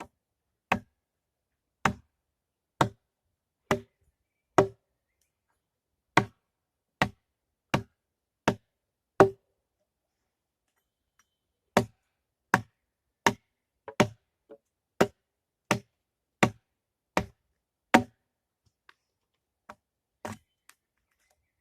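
Sharp knocks of a hand tool striking wood, coming about one a second in two runs of around ten blows each with a short pause between, and a few lighter taps near the end.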